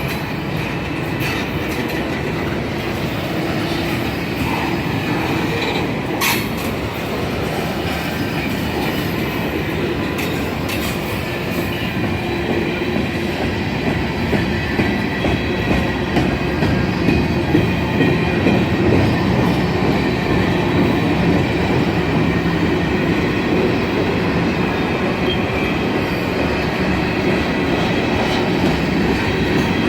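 A train rolling past: a steady, loud rumble of wheels on rails with occasional sharp clicks over the rail joints.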